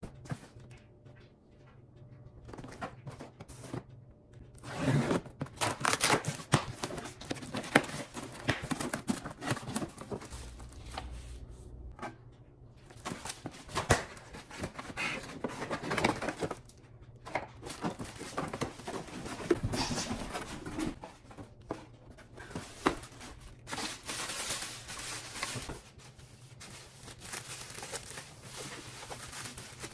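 A coffee maker and its packaging being handled: irregular crinkling and tearing, with scattered clicks and knocks, over a faint steady low hum.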